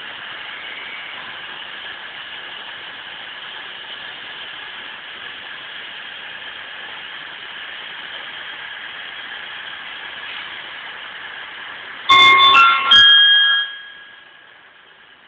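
Steady noise of trains moving through a station, with a diesel multiple unit passing close by. About twelve seconds in, a loud electronic chime of several notes at different pitches sounds for about a second and a half.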